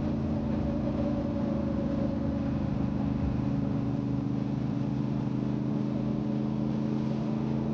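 Motorcycle engine running at a steady cruising speed while riding, its pitch held even, over a rumble of wind and road noise.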